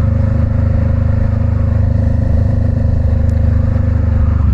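Motorcycle engine running at a steady, even note while being ridden.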